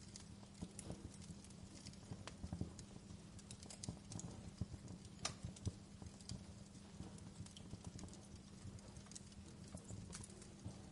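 Wood fire burning in a fireplace, crackling with irregular small snaps and a few louder pops over a low, steady background.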